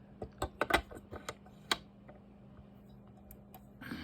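Sharp clicks and knocks of a Bird wattmeter's plug-in element (slug) being pulled out and a 50-watt element seated in its place, a quick cluster in the first couple of seconds, then only a faint steady hum.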